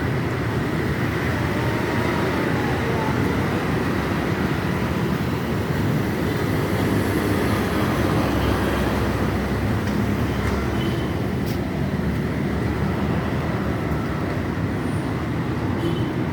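Steady running noise of a moving vehicle, deep and even throughout.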